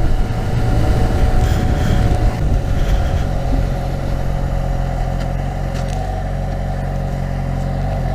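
2012 Yamaha FZ6R's 600cc engine running at a steady cruise under wind noise, its pitch starting to drop at the very end as the bike slows.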